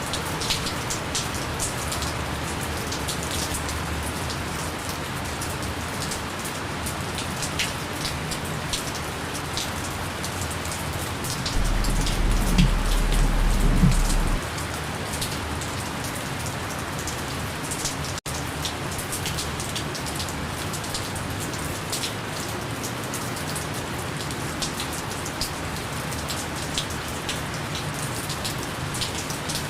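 Gentle rain falling steadily, with many individual drops pattering. About twelve seconds in, a low rumble rises under the rain for about three seconds, and near the middle the sound drops out for an instant.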